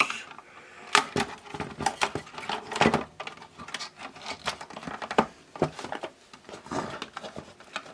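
Irregular clicks, knocks and rattles of a small replacement transformer and its wires being worked into a plastic radio cassette casing by hand.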